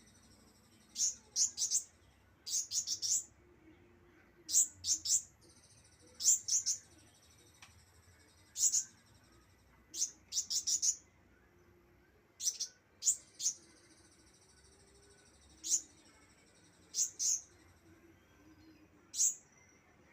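Young pentis (flowerpecker) practising its song: groups of one to four sharp, very high chips every second or two, with fainter thin high trills running between them.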